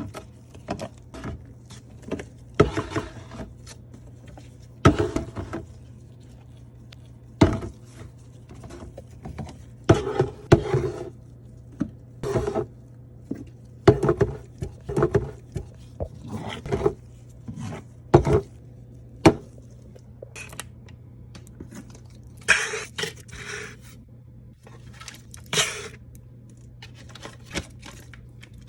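Containers, packaging and kitchen items handled and set down: a string of separate clicks, taps and knocks with a few short stretches of scraping and rustling, over a steady low hum.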